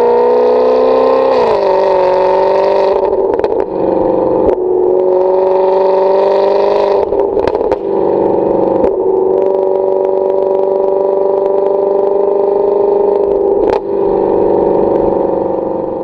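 2008 Maserati Quattroporte's V8 running loud through a Kreissieg valved exhaust. Its pitch climbs and then drops about a second and a half in, after which it holds steady at speed with a few brief clicks.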